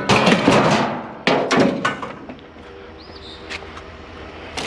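Pieces of scrap metal being handled and tossed, clattering and knocking together: a dense burst of knocks in the first second, then a few more strikes around a second and a half in. A bird chirps briefly about three seconds in.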